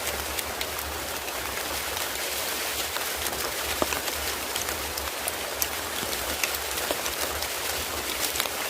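Steady rain falling, with many individual drops striking close by as sharp ticks.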